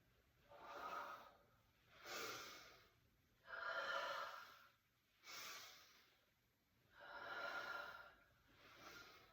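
A person breathing slowly and audibly: about six breaths, alternating in and out, each lasting roughly a second with short pauses between.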